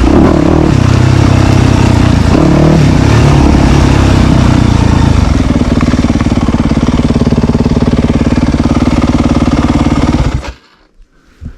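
Dirt bike engine running loud under the rider's throttle, pitch rising and falling for the first few seconds and then holding steadier, before the sound stops abruptly near the end.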